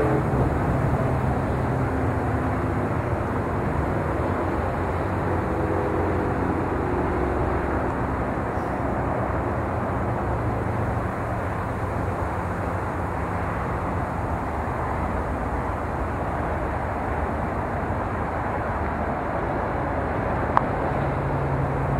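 A freight train passing at a distance. Diesel locomotive engine drone fades over the first several seconds, leaving a steady rumble of freight cars rolling on the rails. There is one sharp click near the end.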